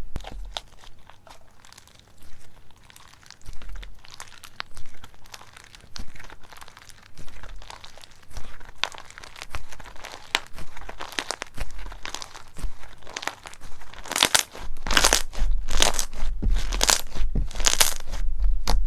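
Slime being squeezed and pressed by hand, with a run of fine crackling clicks and pops. Near the end come about five louder crunches, roughly one a second.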